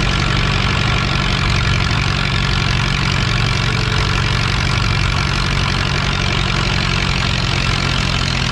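Antique farm tractor's engine running steadily, its pitch and loudness holding even.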